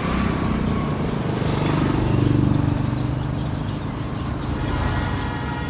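A vehicle engine running, its low hum rising in pitch about two seconds in and then easing off, with an insect, likely a cricket, giving short high chirps roughly once a second.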